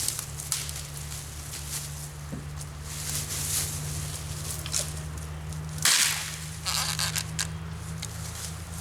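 Wooden branch being levered in a tree fork, with small cracks and rustles, then breaking with one loud snap about six seconds in.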